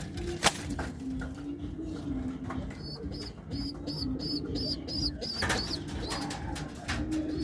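Domestic pigeons cooing in a loft, a low wavering coo running on and off throughout. Midway there is a quick series of high peeps, about four a second, and a few sharp clicks and knocks, the loudest about half a second in.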